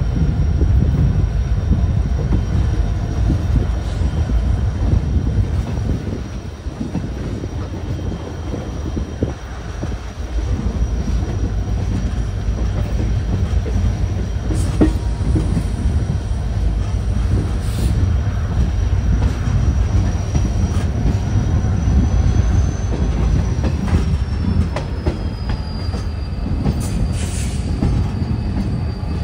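Diesel passenger trains running on the rails: a steady loud rumble of wheels and running gear, with a thin high wheel squeal that drops slightly in pitch about three-quarters of the way through, and a few sharp clicks from the wheels over the track.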